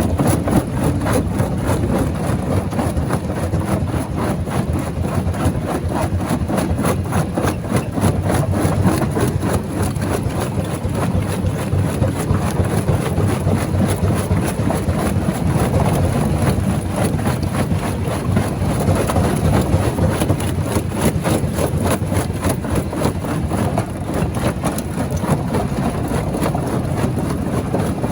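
Large stone crusher running under load: a steady engine drone with continuous, closely packed knocking and grinding of rock being broken.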